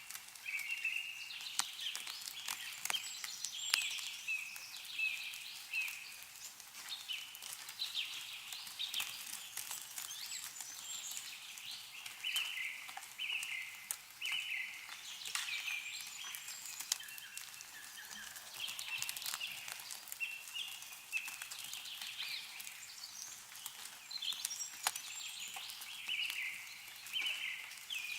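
Several small songbirds chirping and calling in short repeated phrases, with scattered sharp drips of meltwater and snow falling from trees.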